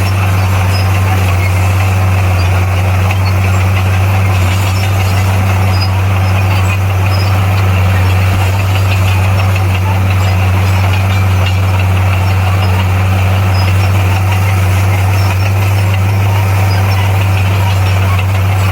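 Bulldozer's diesel engine running at a steady, unchanging pitch, a loud low drone with metallic clatter over it.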